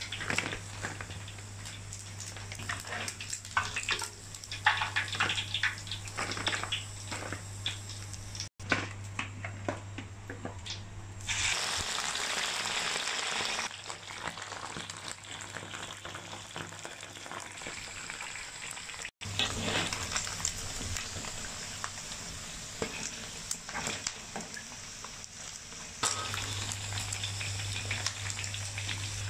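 Snake meat deep-frying in hot oil in a wok: a continuous sizzle dense with small crackles and pops, growing louder and smoother for a couple of seconds just before the middle. A low steady hum runs underneath.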